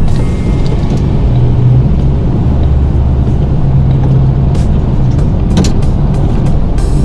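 Plow truck engine running steadily while plowing snow, with one sharp knock about five and a half seconds in. Background music plays along with it.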